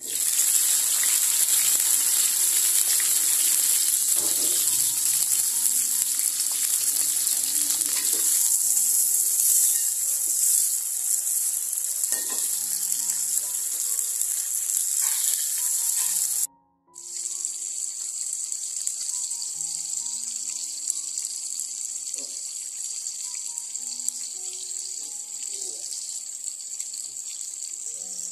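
Chilies, tomatoes and shallots dropped into hot oil in a wok, frying with a loud sizzle that starts abruptly. About sixteen seconds in it cuts off suddenly and a softer, steady hiss follows as a pot of clear vegetable-soup broth simmers.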